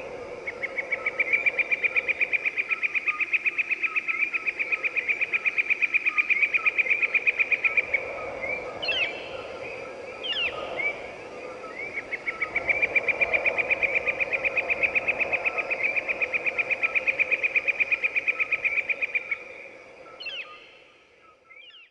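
Two long, rapid, evenly pulsed trills of about seven seconds each, one early and one in the second half, with a few quick sweeping bird chirps between them and again near the end.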